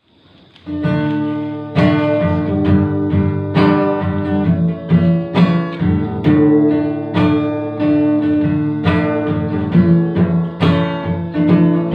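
Acoustic guitar playing a song's instrumental intro, strumming chords with clear attacks every second or two, starting just under a second in.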